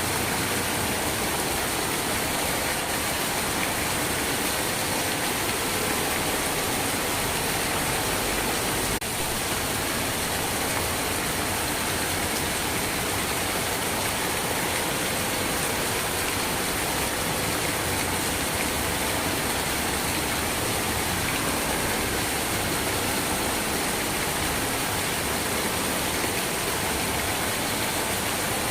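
Steady heavy rain, an even unbroken hiss of falling water. A faint click and a brief small dip in level come about nine seconds in.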